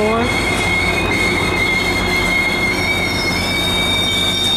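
Coaster commuter train's bilevel cars rolling past the platform as the train pulls into the station, with the steady rumble of the wheels on the rails. The wheels keep up a high, steady squeal that shifts up to a higher pitch about three and a half seconds in.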